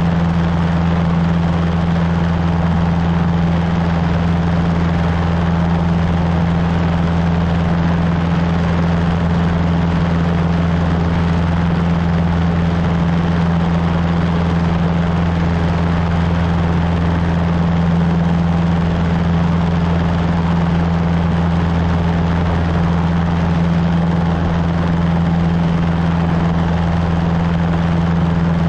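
Cessna 150's four-cylinder Continental O-200 engine and propeller droning steadily in flight, a deep even hum that holds the same pitch and loudness throughout.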